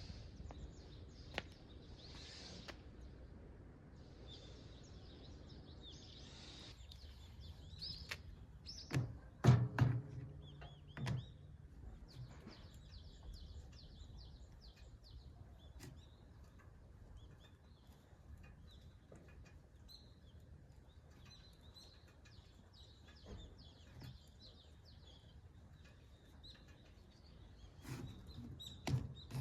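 Small birds chirping and twittering over a faint outdoor background, with a few low thumps about nine to eleven seconds in and again near the end.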